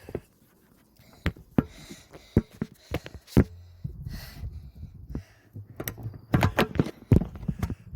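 Irregular clicks, taps and knocks of hands handling a camera and its wires up close, with rubbing handling noise between them. The knocks come thicker and louder near the end.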